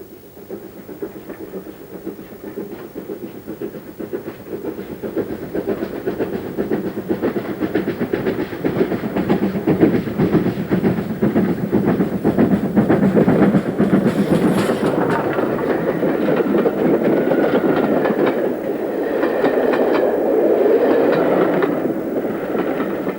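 Great Western Castle class steam locomotive Defiant working a train past, growing louder over the first ten seconds or so and then staying loud, with a brief high hiss about fourteen seconds in.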